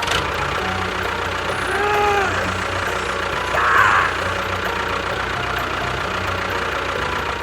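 An engine running steadily with a fast, even low pulsing, with a short rising-and-falling tone about two seconds in and a brief sharper burst a little before four seconds.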